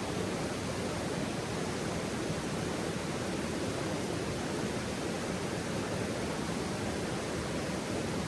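Steady, even rushing noise with no distinct crackles or pops.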